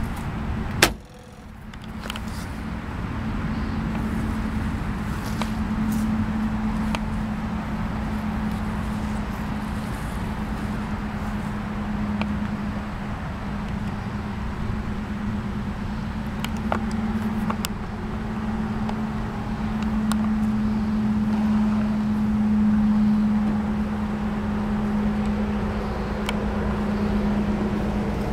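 Austin-Healey 100-6's 2.6-litre straight-six idling steadily, an even pitched hum with a low rumble, broken by a sharp knock about a second in.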